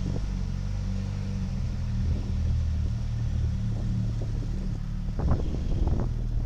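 Vehicle engine idling steadily, with a few short knocks and clicks near the end.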